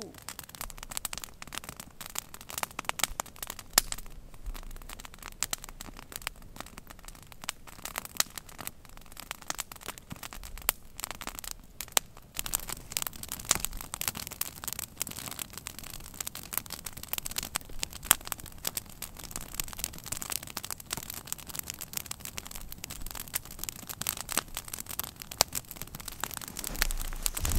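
Wood campfire crackling, with irregular sharp pops and snaps throughout.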